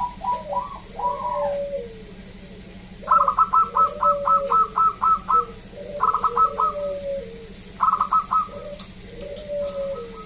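Zebra doves (perkutut) cooing in several phrases: quick runs of short, clipped notes, the longest about a second and a half long, over lower, drawn-out gliding coos.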